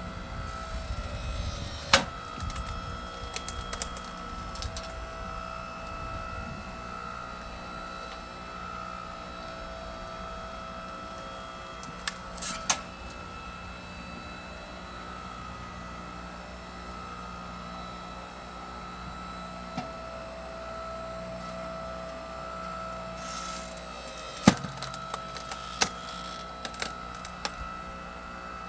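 Engine-driven hydraulic log splitter running with a steady hum while logs split, with sharp wood cracks three times, each followed by smaller snaps and splintering.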